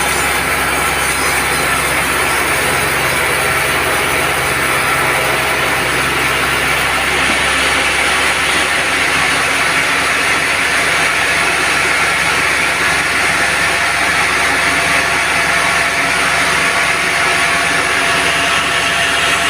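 Band sawmill running steadily, its blade cutting through an old teak log, a continuous loud mechanical noise with the low hum dropping away about seven seconds in.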